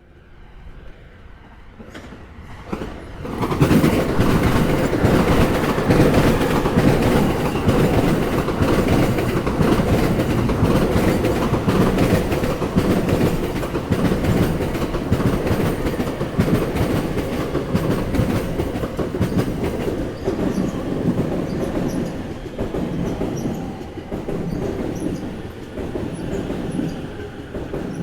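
Train passing over rail joints, its wheels clattering loudly on the joints. The rumble comes in sharply about three seconds in and eases off a little toward the end.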